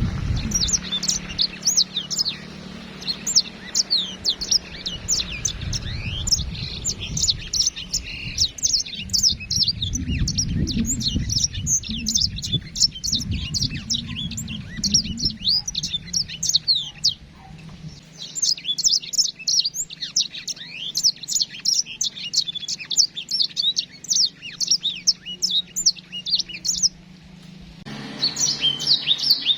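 A group of imported small finches, including yellow-fronted canaries, chirping and twittering all at once in a dense, busy chorus of quick high notes. A low rumble runs underneath for several seconds in the first half.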